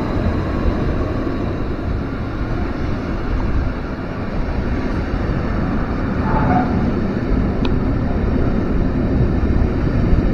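A train running past in a railway station: a loud, steady rumble with no breaks, and a brief faint tone about six seconds in.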